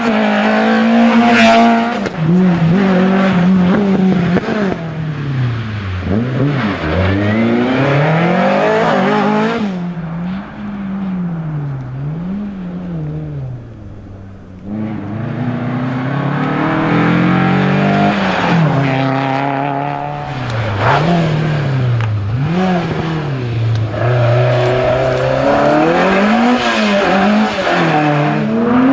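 Rally car engine driven hard on a closed stage, its pitch climbing and dropping again and again through gear changes and throttle lifts. It fades briefly about halfway through, then comes back loud.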